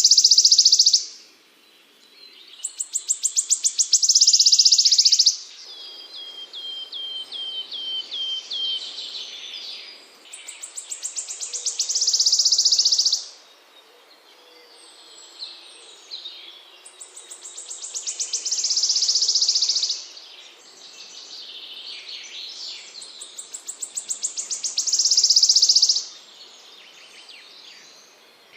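Small songbird singing: a rapid trill that builds in loudness and lasts about two seconds, repeated about every seven seconds, with softer chattering and a run of short down-slurred whistled notes in between.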